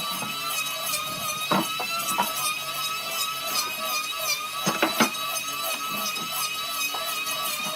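A power tool's motor running with a steady whine, with a few sharp knocks of wood on wood or tool on wood about a second and a half in, near two seconds, and twice around five seconds.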